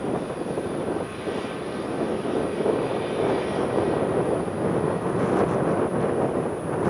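Jet airliner's engines, a steady rushing noise with no sharp events.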